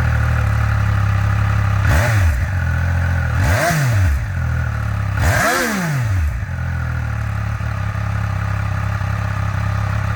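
Triumph Speed Triple 1200 RR's 1160cc inline-three engine idling, blipped three times: the revs rise and fall about two, three and a half, and five and a half seconds in, the last the highest, then it settles back to a steady idle.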